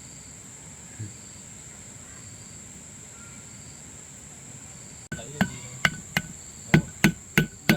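Steady insect chirring throughout. About five seconds in, hammer blows on metal begin, roughly three a second, each ringing briefly.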